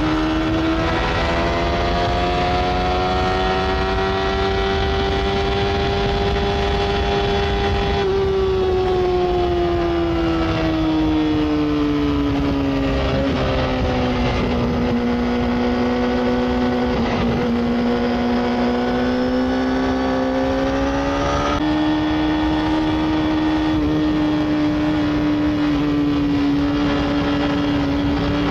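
Sport motorcycle's inline-four engine pulling steadily at high revs while riding, its pitch slowly rising and falling with the throttle. It jumps up sharply once about three quarters of the way through, as at a downshift. Wind rush runs underneath.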